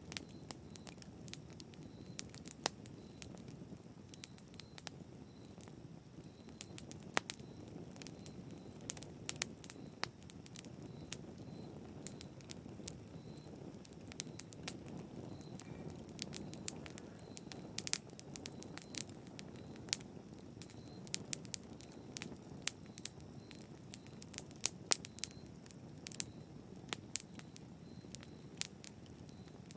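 Fire burning in a fireplace: a low steady rush of flame under frequent sharp crackles and pops at irregular intervals.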